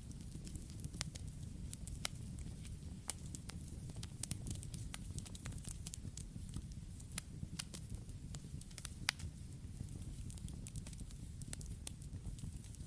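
Campfire crackling: irregular sharp pops and snaps of burning wood over a low steady rumble, with one louder pop about nine seconds in.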